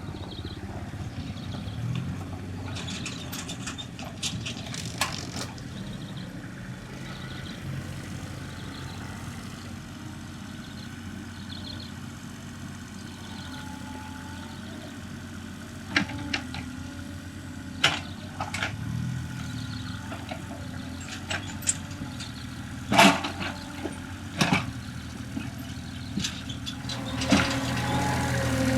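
Diesel excavator engine running steadily, with several sharp knocks and clanks in the second half. The engine grows louder near the end, as if working harder.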